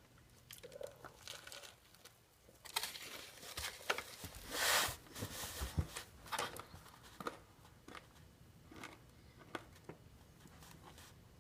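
Quiet, scattered crinkles and clicks of a burger being handled and eaten, with a louder rustle about four and a half seconds in.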